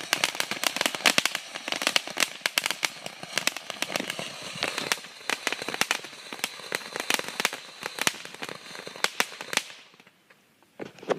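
Lit consumer firework crackling, a rapid, irregular stream of sharp pops that goes on for about nine seconds and then stops.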